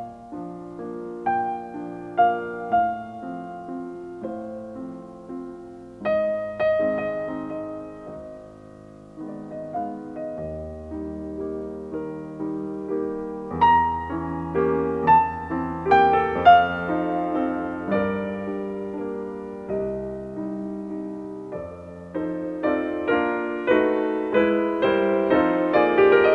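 Background piano music, slow and gentle, growing fuller and louder about halfway through and again near the end.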